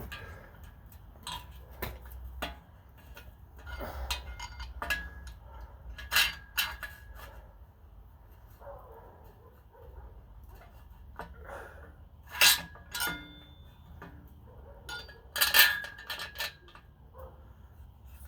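Metal parts and bolts clinking and knocking as they are handled and set down, the loudest strikes ringing briefly at the same pitch, three of them standing out.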